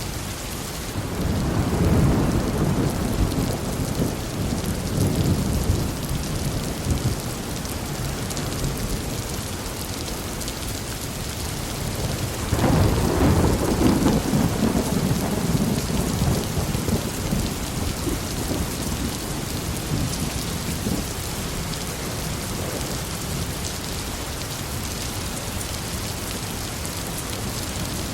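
Heavy rain falling steadily, with two long rolls of thunder: one begins about a second in, the other about twelve seconds in, each fading over several seconds.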